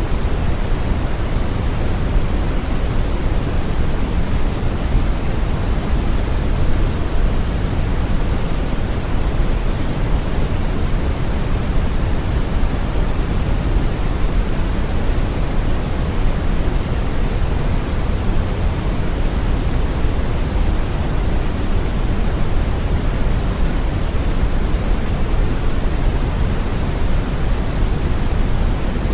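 Steady brown noise: an even, deep rushing hiss with most of its energy in the low end and little treble, unchanging throughout.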